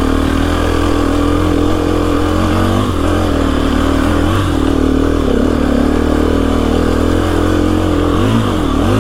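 KTM 350 EXC-F single-cylinder four-stroke dirt bike engine pulling up a hill climb under steady throttle, its pitch wavering slightly as the throttle is worked. Near the end there are two quick dips and rises in revs.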